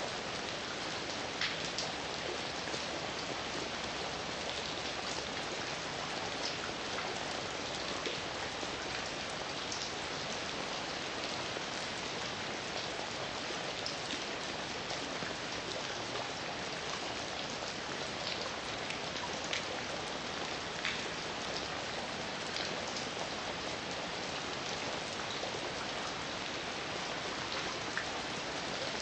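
Steady heavy rain falling, an even hiss with many individual drops ticking on a surface.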